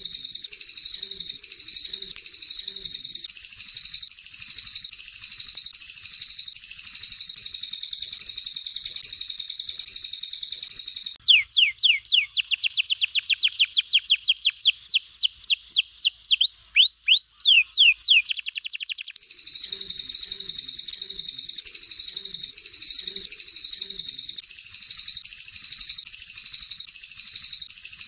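Caged songbird song for bird training: a canary's dense, continuous high trilling and warbling. About 11 seconds in it gives way for about eight seconds to a fast run of whistled notes sliding down in pitch, several a second, with a few rising-and-falling notes near the end of the run, before the dense trilling returns.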